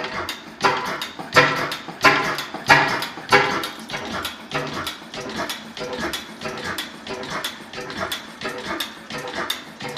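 Vintage 6 hp National oil engine running, a steady rhythm of exhaust beats and mechanical knocks. The heaviest beats fall in the first few seconds, about one and a half a second, then even out lighter.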